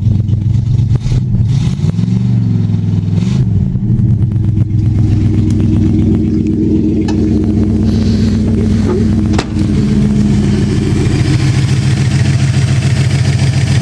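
1962 Oldsmobile's 394 cubic-inch high-compression V8 running smoothly at idle, with a brief rev up and back down about two seconds in.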